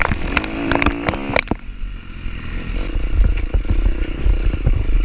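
Four-stroke dirt bike engine running over rocky ground, with sharp clattering knocks through the first second and a half, then a heavy low rumble.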